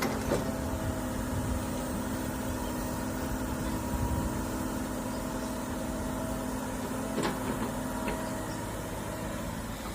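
Hydraulic excavator's diesel engine running steadily, with a thin steady whine above it and two short knocks, one at the start and one about seven seconds in.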